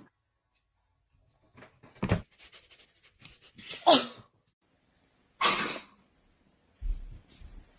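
A pet sneezing and snorting in short scattered bursts, the sharpest sneeze about five and a half seconds in, followed by low bumps near the end.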